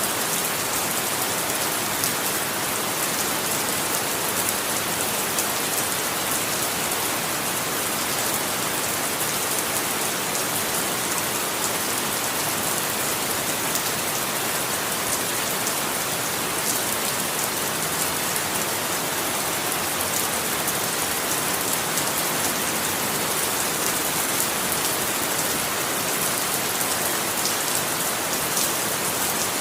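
Steady rain falling, an even hiss with fine patter of drops hitting a surface, unchanging throughout.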